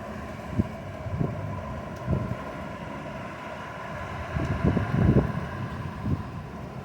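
Hurricane Ian's winds making a low, grumbling sound, with gusts buffeting the microphone several times, hardest about two-thirds of the way through.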